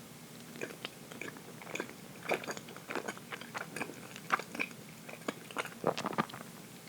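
Close-miked chewing of dense chocolate cake: a run of short wet mouth clicks and smacks, sparse at first and then rapid, stopping shortly before the end.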